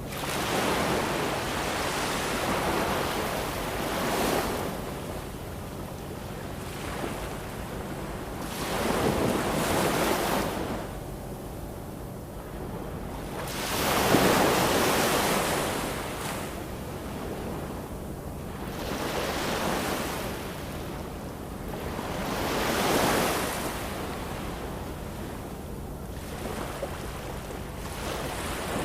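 Ocean waves washing in and drawing back, swelling in about five slow surges, the loudest about halfway through.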